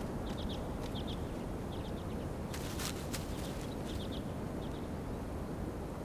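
A small songbird gives quick high chirps in little clusters of two or three notes, repeated over a steady low outdoor rumble. A brief rustle comes a little before the middle.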